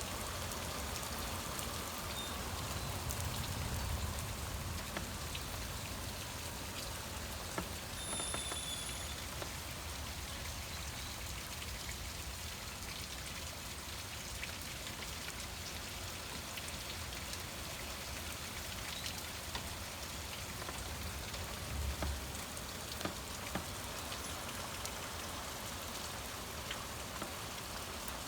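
Heavy rain falling steadily, with many individual drops ticking close by. A low rumble rises briefly about three to four seconds in and again about twenty-two seconds in.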